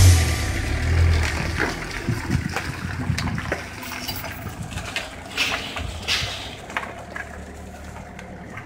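A song ends in the first second or so. After it, a vehicle engine idles low and steady, with scattered short knocks and rustles.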